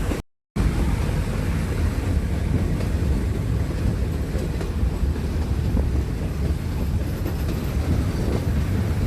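A Nilgiri Mountain Railway train running along the track: a steady, low rumble of the moving train. The sound cuts out completely for a moment just after the start.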